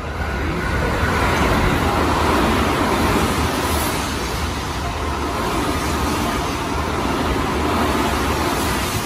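Tozai Line electric commuter train running through the station platform at speed without stopping, a steady rush and rumble of wheels on rail. It builds in the first second and eases slightly near the end as the last cars go by.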